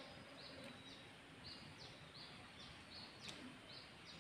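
Near silence, broken by a small bird's faint call: short high notes, each sliding quickly upward, repeated two or three times a second over quiet outdoor ambience. A single faint click comes about three seconds in.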